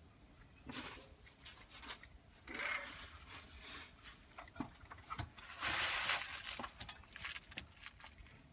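Intermittent rubbing and scraping of things being handled, in three or four short spells, with a few light knocks and clicks between them.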